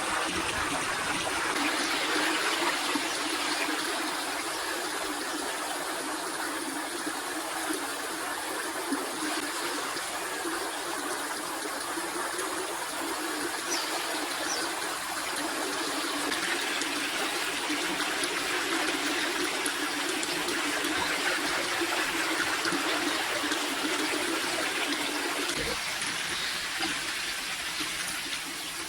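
Steady rush of running water, like a stream flowing, unchanging throughout.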